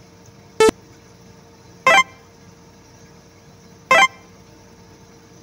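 Three short horn toots, about one and a half to two seconds apart, over a faint steady hum. The first toot is briefer and higher-pitched than the other two.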